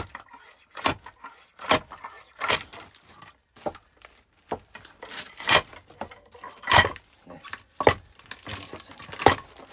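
Splitting axe striking small pieces of dry oak firewood to split them into kindling: a run of sharp wooden knocks, about one a second at first, then at uneven gaps.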